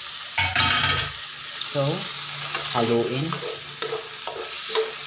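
Chopped garlic, onion and tomato sizzling in hot oil in a metal wok, with a spatula stirring and scraping through them.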